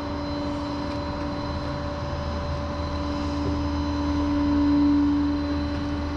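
An engine running with a steady drone and hum, swelling louder about five seconds in and then easing off.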